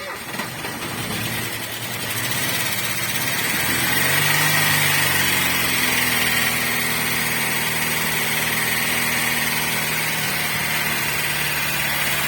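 Opel Astra F engine idling just after being started, its speed rising a few seconds in and then settling steady. The engine has a loud knock that the owner puts down to the hydraulic valve lifters.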